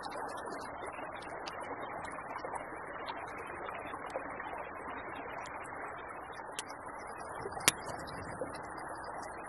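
Campfire crackling: a steady hiss with scattered small crackles and one sharp pop about eight seconds in.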